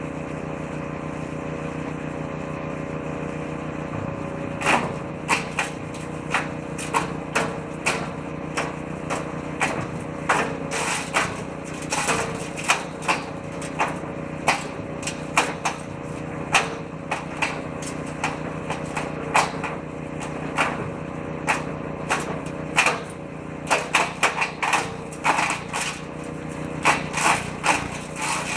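Woodchipper-shredder engine running steadily; from about five seconds in, branches fed into the shredder drum crack and clatter irregularly as they are chipped, more thickly near the end.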